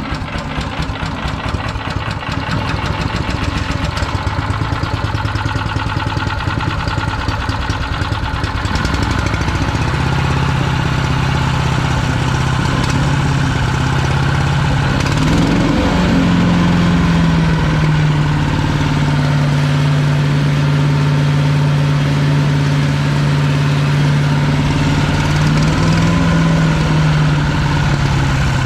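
PowerMate wood chipper's 212cc single-cylinder four-stroke engine running just after a cold start on choke. Its speed picks up about halfway through and then holds steady.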